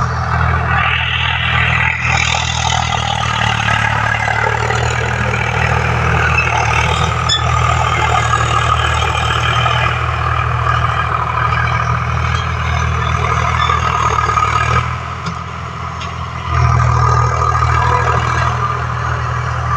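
Tractor diesel engine running steadily. About 15 s in it drops off for a moment, then comes back slightly louder.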